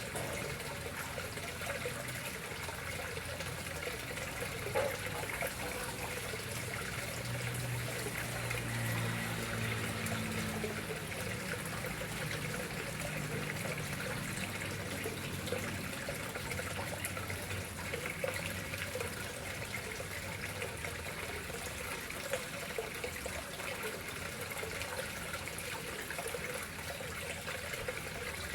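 Water flowing and trickling steadily into a koi pond, with a faint low hum for a few seconds near the middle.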